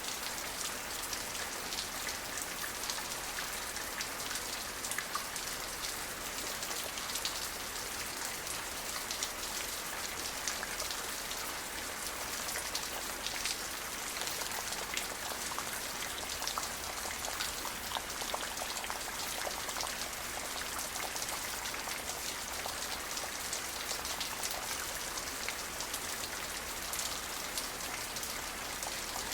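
Steady rain falling, an even hiss dotted with many small drop ticks on a hard surface, with no thunder.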